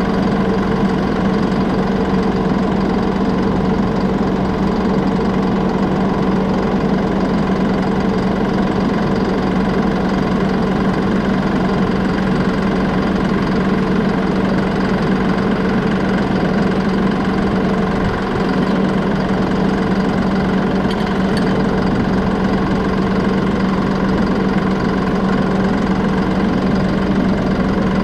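John Deere 5075E tractor's three-cylinder diesel engine idling steadily.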